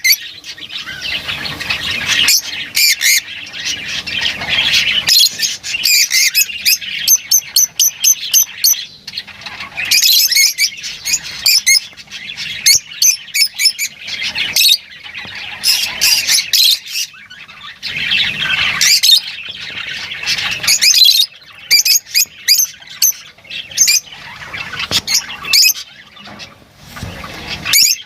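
Lovebirds chattering and squawking: many shrill high-pitched calls and chirps overlapping, with a fast run of short repeated chirps about a quarter of the way in.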